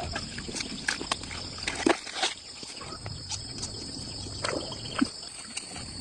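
Insects buzzing steadily with a high, even tone, with scattered short clicks and knocks and a low rumble underneath.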